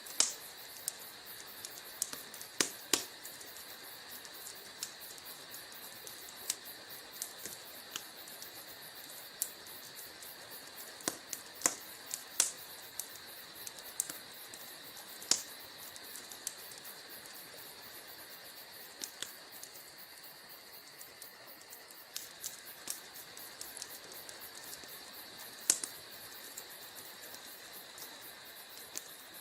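Wood fire in a fireplace crackling: irregular sharp crackles and occasional louder pops over a steady hiss.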